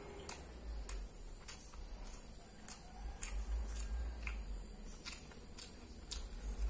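Chewing a mouthful of crispy breaded fried tofu: sharp crunches about twice a second over a low rumble.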